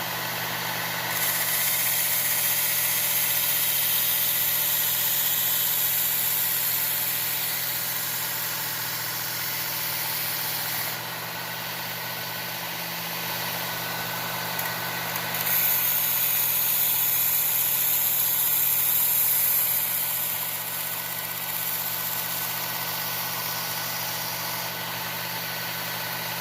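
Work Sharp powered belt sharpener's motor running steadily while a knife blade is ground on the abrasive belt, reprofiling the edge into a convex bevel. The grinding hiss swells loud twice, about a second in for roughly ten seconds and again about halfway through for a few seconds, as the blade is pressed to the belt.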